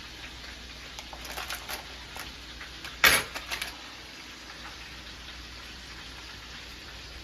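Beef frying in a pan with a steady sizzle. One sharp knock about three seconds in, with a few lighter taps before and after it.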